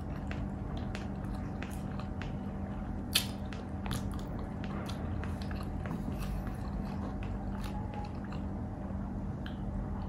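A person chewing and biting pork bistek and rice close to the microphone, with many small wet mouth clicks and smacks and one sharper click about three seconds in. A steady low hum runs underneath.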